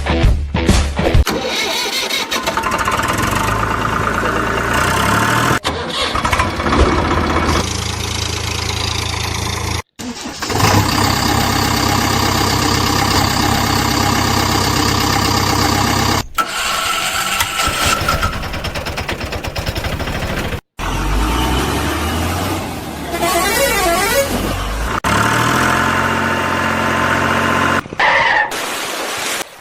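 Motor vehicle engine and horn sounds, in several segments that each cut off abruptly.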